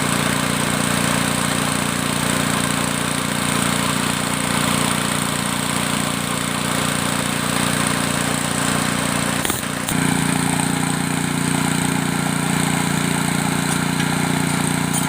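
An excavator's diesel engine running steadily, with a short break about two-thirds of the way through after which the note shifts slightly.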